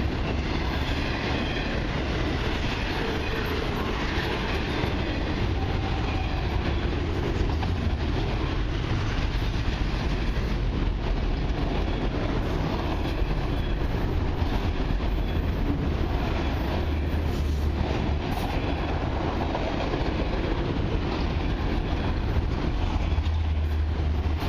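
Enclosed multilevel autorack freight cars rolling past close by, their steel wheels on the rails making a steady, unbroken rumble.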